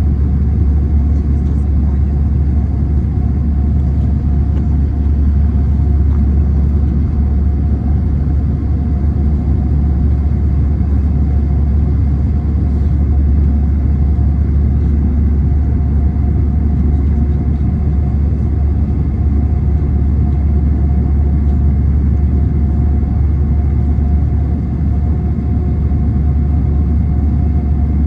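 Airbus A321 cabin noise: a steady, deep rumble of engines and airflow with a faint steady hum above it.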